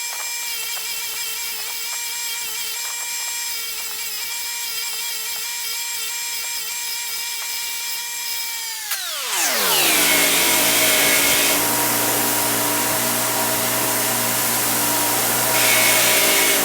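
Power tool with a wire wheel spinning freely with a steady whine, then from about nine seconds in a rusty steel bolt is pressed against it: the motor drags down in pitch under load and the wire bristles make a loud, harsh scratching as they strip rust. Near the end the part is lifted off and the motor speeds back up.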